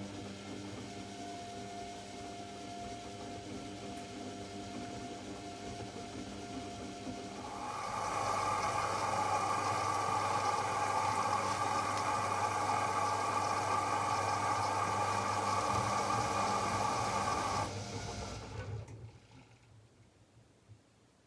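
AEG Lavamat L74810 washing machine: a steady electric hum from a pump or valve, joined about seven seconds in by a much louder rushing hiss of the water system. The hiss cuts off about ten seconds later and the machine falls quiet.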